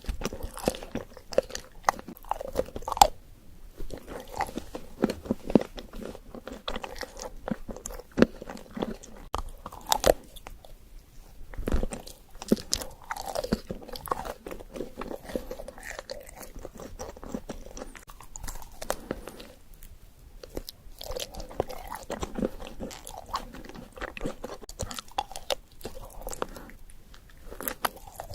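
Close-miked biting, crunching and chewing of an Oreo chocolate dessert: runs of crisp crunches broken by a few short pauses.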